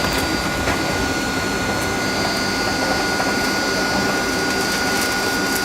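Steady cabin noise of a Boeing 757-223 with Rolls-Royce RB211 jet engines running: an even rushing sound with a steady high whine over it.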